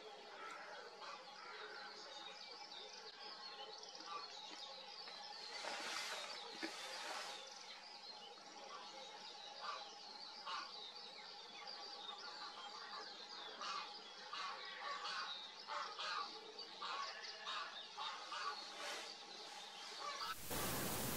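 Small birds chirping and calling over a quiet outdoor background, many short calls scattered throughout. About a second before the end, a loud, even rushing noise sets in.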